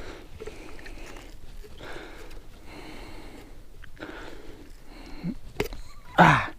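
A man breathing heavily in quick, audible breaths after a fight with a fish, ending in a short, loud voiced exclamation near the end.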